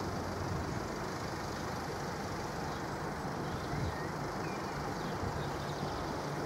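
Steady low hum and rumble of road vehicles idling in a queue.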